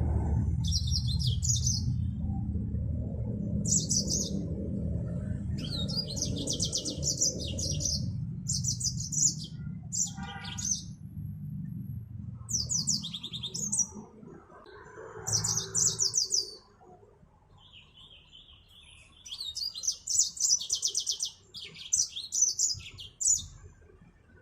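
Mozambique finch (yellow-fronted canary) singing in short, rapid twittering phrases repeated every second or two. For the first half there is a low rumble underneath, which fades out about halfway through.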